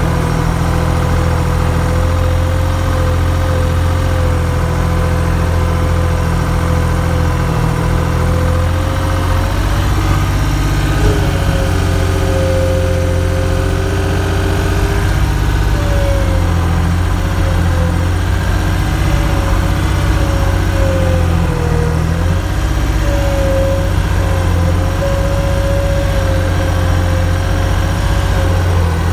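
An engine running steadily at a constant speed, with a deep rumble and a whine over it that wavers up and down in pitch, more in the second half.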